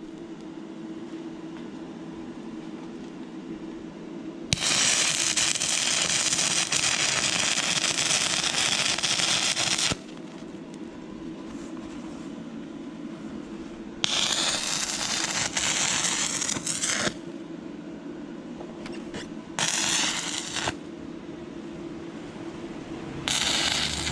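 Stick welding with 6011 electrodes on thin, rusty, painted metal: the arc crackles and hisses in four separate runs, one of about five seconds, one of about three seconds and two short ones near the end, stopping between them. A steady low hum continues in the gaps.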